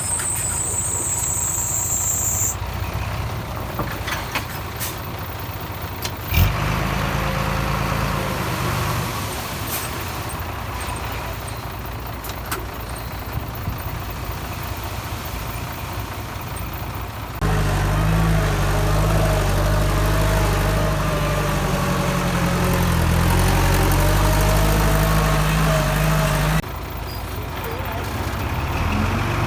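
Diesel engines of earthmoving machinery running, a bulldozer and dump truck at work. The sound changes abruptly several times, and is loudest with a strong steady drone through the later part.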